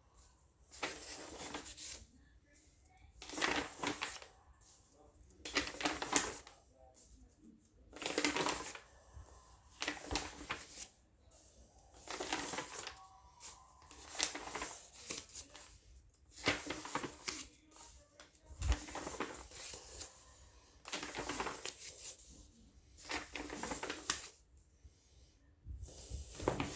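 Paper pages of a colouring book being turned one after another, a short rustle about every two seconds.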